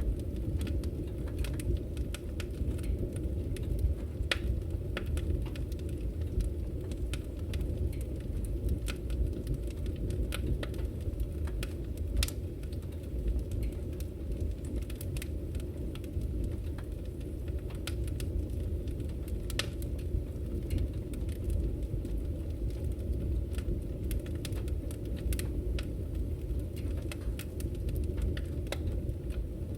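Wood fire burning in a fireplace, crackling with frequent irregular sharp pops and snaps over a steady low rush of the flames.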